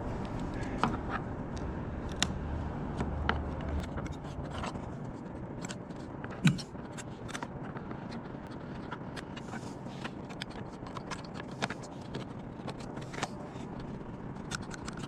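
Scattered light clicks and scrapes of hands working on a 20-year-old plastic hooded dryer vent damper, with one louder knock about six and a half seconds in.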